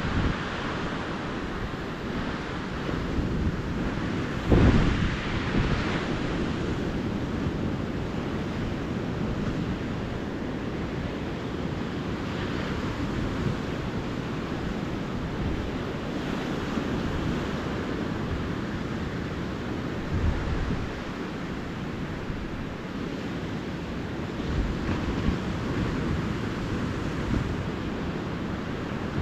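Low ocean surf washing onto a beach, with wind buffeting the microphone; a louder rush comes about four and a half seconds in.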